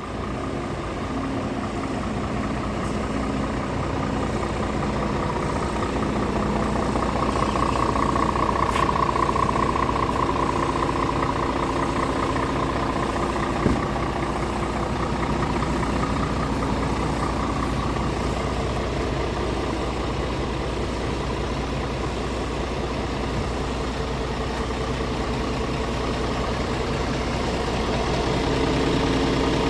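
Scania R450 tractor unit's 13-litre straight-six diesel idling steadily, with a single short click about halfway through.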